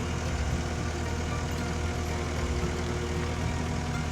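Skid steer engine running steadily while the machine manoeuvres with its forks, a constant even hum with no knocks or impacts.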